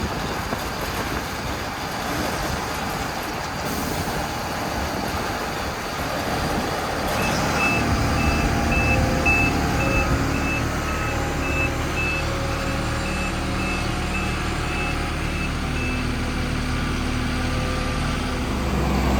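Self-propelled potato harvester running, its engine and machinery note rising and steadying about seven seconds in. Over it, a high electronic beeper sounds about twice a second for some nine seconds, then stops.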